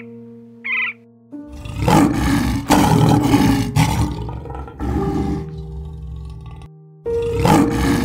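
Lion roaring: a long run of loud roars and grunts starts about a second and a half in and fades over several seconds, then another roar comes near the end. Soft piano music plays underneath, and a short bird call sounds just before the roaring.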